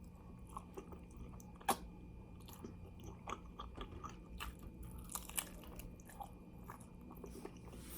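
A person chewing and biting into fried chicken wings close to the microphone, with soft scattered crunches.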